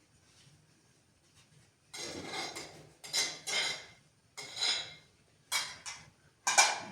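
Dishes and cutlery clattering in a series of irregular bursts, starting about two seconds in, the loudest near the end.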